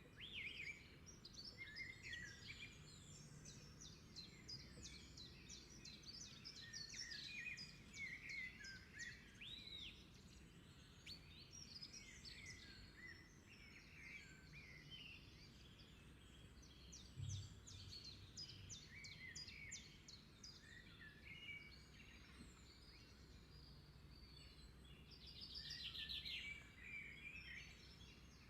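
Birds singing and chirping, several calls overlapping, with quick trills and short whistles, faint over a low background rumble.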